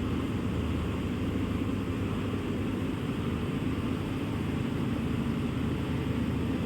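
Steady engine rumble under an even hiss, unchanging throughout.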